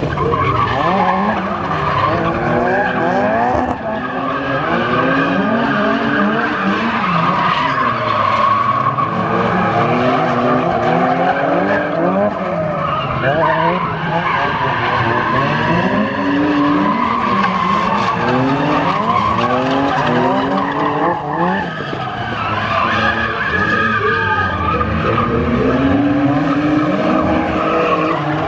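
Drift car engine revving hard, its pitch rising and falling over and over, with the tyres screeching through the slides.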